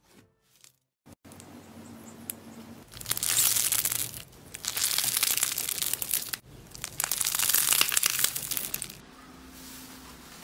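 Crunchy slime being squished, crackling with many fine pops in three long stretches.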